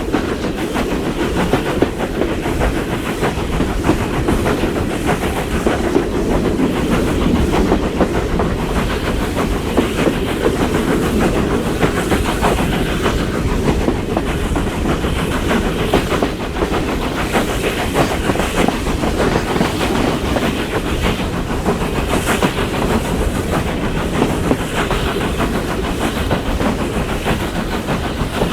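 Steam-hauled heritage train behind Caledonian Railway 0-4-4T tank engine No. 419, running along the line with a steady rumble and the clickety-clack of wheels over rail joints.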